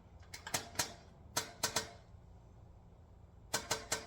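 Honda K24A four-cylinder engine being turned over by hand, giving sharp metallic clacks in clusters of three or four, which the mechanic takes for timing chain trouble.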